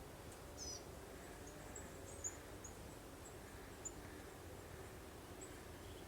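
Faint breeze ambience with a soft steady rumble, and distant small birds chirping: scattered short high chirps, with one brief wavering call about half a second in.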